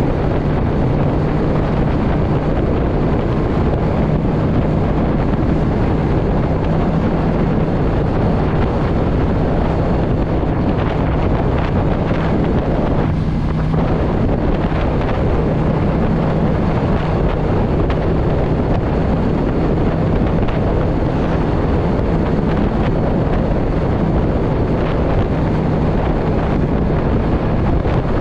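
Yamaha V Star 650's V-twin engine running at a steady cruising pace, nearly buried under heavy wind rush on the microphone.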